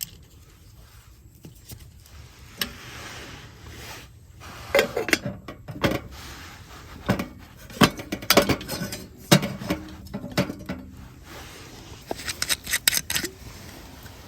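Metal camp cookware and utensils clinking and knocking as they are handled, in a run of sharp clinks, some ringing briefly, then a second short flurry near the end.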